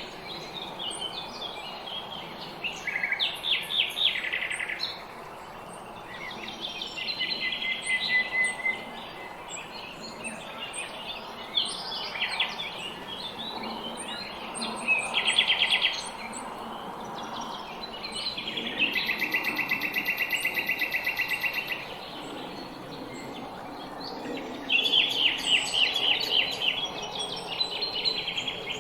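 Several small songbirds singing in a spring dawn chorus: overlapping chirped phrases and rapid trills, one long even trill about two-thirds of the way through, over a faint steady background hum.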